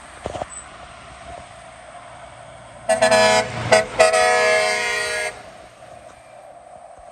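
Truck air horn sounding two blasts: a short one about three seconds in, then a longer one lasting just over a second. Beneath them is the low sound of the passing truck's engine.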